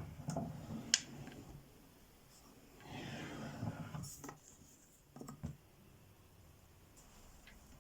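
Light handling sounds: a few soft knocks and clicks, with a brief rustle about three seconds in.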